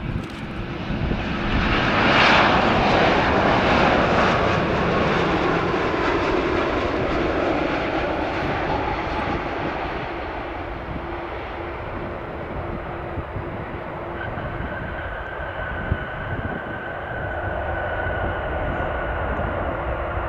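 Jet airliner's engines rushing past close by, loudest about two seconds in and then slowly fading. A steady higher-pitched engine whine sets in about two-thirds of the way through.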